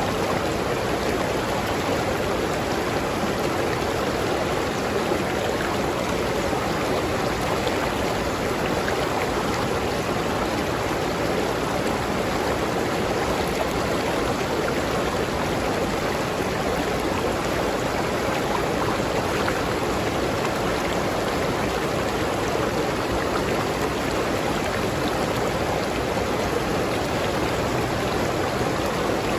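River stream flowing over rocks: a steady, unbroken rush of water.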